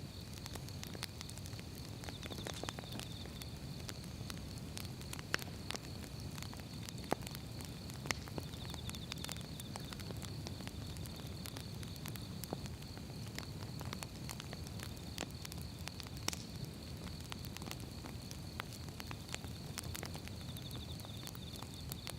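Firewood burning with irregular crackles and sharp pops over a low steady rumble of the flames; the loudest pops come about five, seven, eight and sixteen seconds in. A faint steady high-pitched tone runs underneath.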